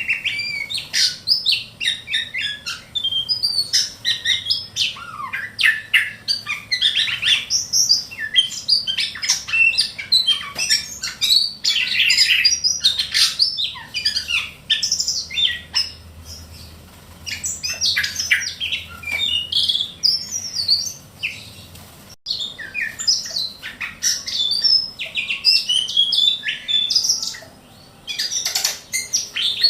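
A ciung batu kecil (small whistling thrush) singing: a dense, continuous run of quick high chirps, whistles and short slurred notes, broken by brief pauses about halfway through and near the end. Recorded as tutor song for training other songbirds.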